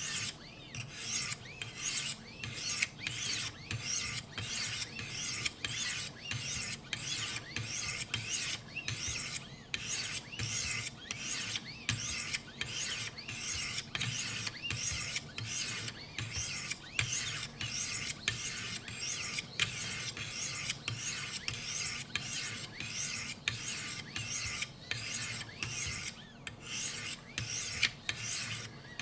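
Sharpening stones on a guided Wicked Edge sharpener scraping along an S90V steel knife edge at 800 grit, in steady, evenly spaced strokes, about three every two seconds.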